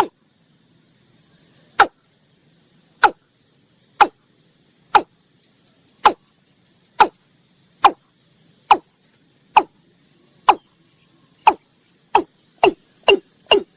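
Watercock (Gallicrex cinerea) calling: a series of short, sharp notes, each dropping quickly in pitch, about one a second, speeding up to about two a second near the end.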